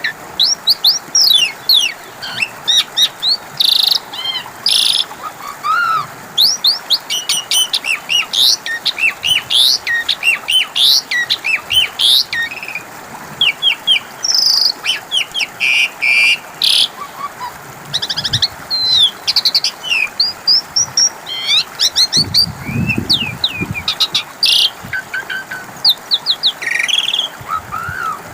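Asian pied starling (jalak suren) singing a rapid, varied song of whistled glides, chatters and sharp clicks, with hardly a pause. A brief low rumble comes about two-thirds of the way through.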